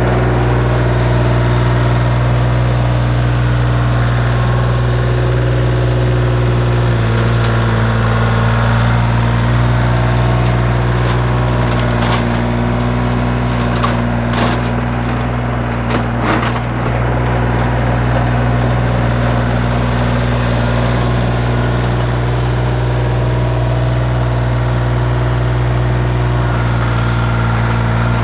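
Kioti CK3510 SE tractor's diesel engine running steadily under load, driving a Terra Force 60-inch PTO tiller as its forward-spinning tines chop through root-filled ground. A few sharp knocks come from the tiller around the middle.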